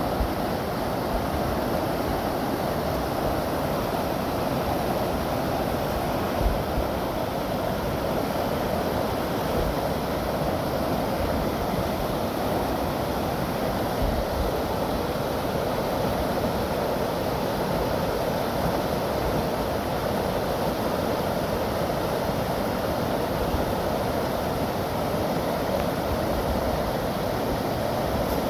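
Steady rushing of water from a heavy rain event, even and unbroken, with low rumbles of wind buffeting the microphone.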